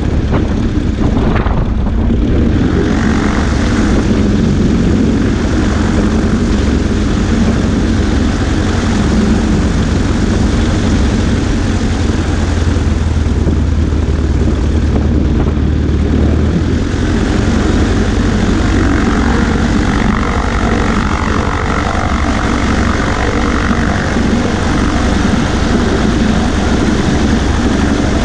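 Cessna 140A's engine and propeller running steadily, with wind rush over the wing-mounted microphone; the low engine note grows stronger partway through.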